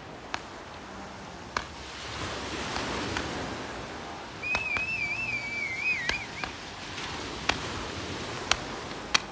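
Fireworks going off: scattered sharp cracks and a rushing hiss as rockets launch. About halfway in comes a high, wavering whistle lasting about two seconds.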